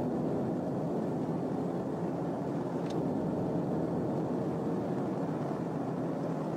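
Steady engine, tyre and wind noise inside a 2018 Dodge Charger patrol car travelling at over 100 mph in pursuit.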